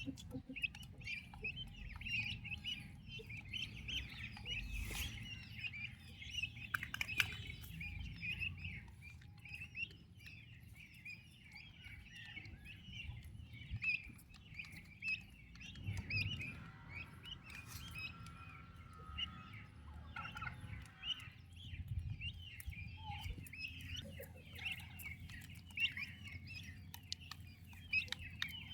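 Turkey poults peeping continuously: many short, high chirps overlapping all through, over a low background rumble.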